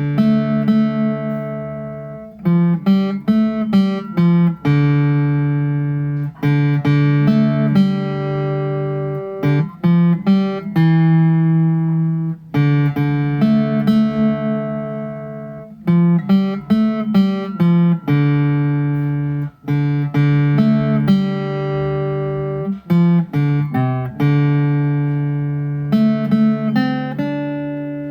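GS Mini small-body acoustic guitar played solo, single notes and chords plucked and left to ring in a slow tune.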